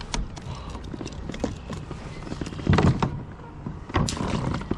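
Knocks, clicks and rustles of handling gear and the fish aboard a plastic fishing kayak, with two louder thumps about three and four seconds in.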